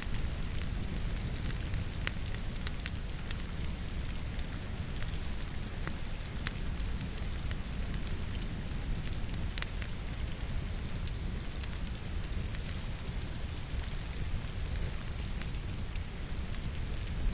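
Firewood crackling in a fireplace, with sharp pops scattered irregularly throughout, over the steady hiss of rain and a low, even rumble.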